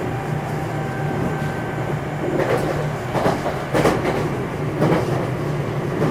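JR West 227 series electric train running, heard from inside motor car KuMoHa 227-7: a steady rumble of wheels and running gear, with several clattering knocks over the rail joints starting about two seconds in.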